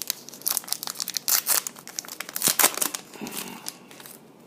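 Foil football card pack wrappers being torn open and crinkled: a dense run of crackly rustles that dies away about three and a half seconds in.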